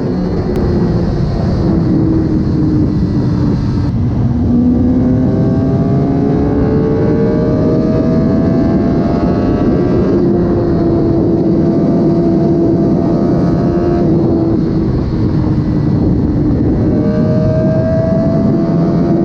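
Suzuki GSX-R1000 K7 inline-four with its stock exhaust, under way with heavy wind noise. The engine note climbs for several seconds as it accelerates, drops suddenly about ten seconds in and again near fourteen seconds, and climbs once more near the end.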